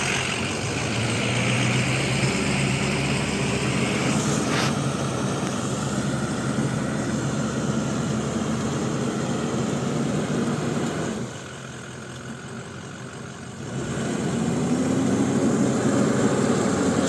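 Off-road vehicle engine running steadily, with a single sharp click about four and a half seconds in; the engine drops quieter for a few seconds about two-thirds of the way through, then comes back up.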